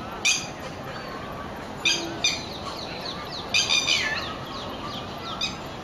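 Birds calling: several short, loud calls come at irregular intervals, with fainter falling chirps between them over steady outdoor background noise.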